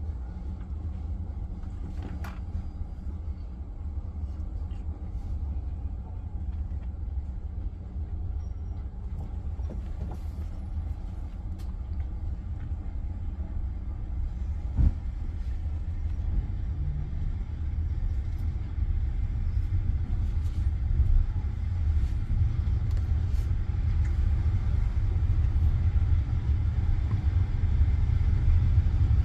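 Passenger train carriage running on the rails: a steady low rumble that grows steadily louder, with an occasional sharp knock. The rising level fits the train gathering speed out of the station.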